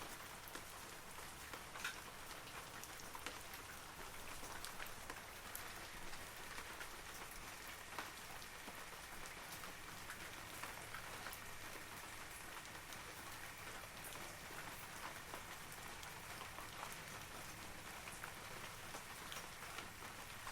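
Steady rain falling on forest trees, a continuous soft patter with scattered sharper drips from leaves.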